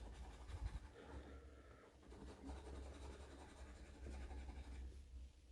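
Faint scratching at a scratch-off lottery ticket's coating, over a low steady hum.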